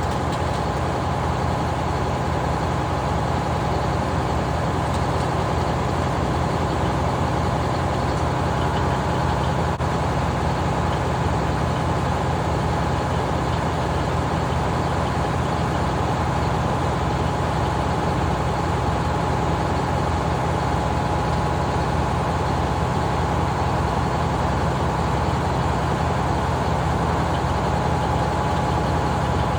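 Engine running steadily at an even speed, with a steady thin whine above its low pulsing.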